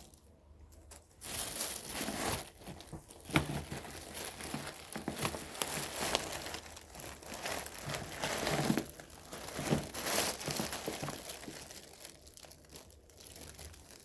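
Irregular crinkling and rustling, like something being crumpled or handled, with a sharp click about three and a half seconds in.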